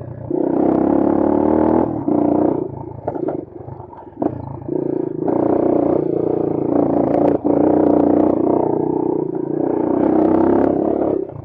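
Bashan Brozz 250 dual-sport motorcycle's single-cylinder engine revving under throttle in several long pulls, easing off briefly between them, with scattered clatters and knocks.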